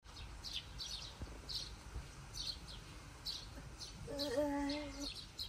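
Birds chirping, short high calls repeating every half second to a second. About four seconds in, a person gives a brief hummed sound lasting about a second.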